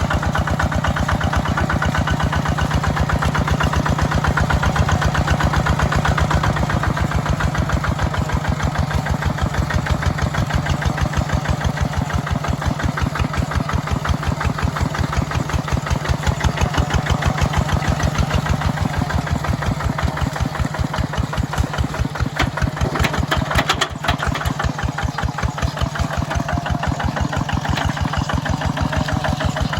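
Mini tractor engine running steadily under load while plowing, with an even, rapid chugging beat.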